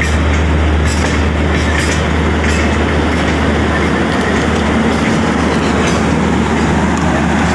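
Mumbai–New Delhi Duronto Express running into New Delhi station, heard from the coach door: a steady rolling rumble with scattered clacks of the wheels over rail joints and points.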